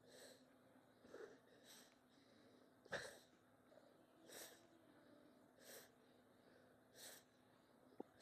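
A man breathing hard from exertion, with short, forceful breaths about every second and a half and the strongest about three seconds in. A faint click comes near the end.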